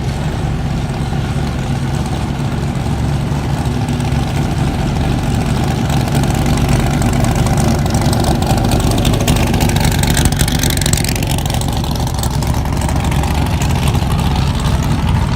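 Car engine running with a deep, steady note, getting a little louder in the middle.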